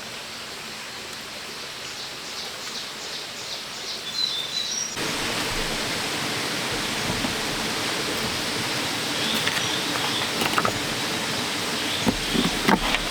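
Steady outdoor noise with a few short bird chirps. The hiss jumps louder and fuller about five seconds in, and a few short knocks come near the end.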